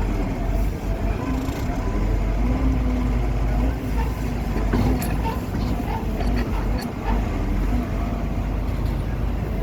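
Engine of a heavy machine running steadily, a continuous deep rumble.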